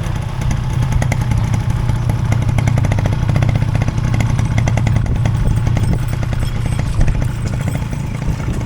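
Motorcycle engine running steadily with a low drone.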